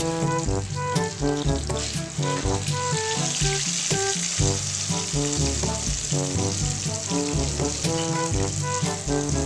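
Sweet potato tops bound with beaten egg frying in a wok of hot oil, a steady sizzle, with background music carrying a rhythmic bass line and a bright repeated melody over it.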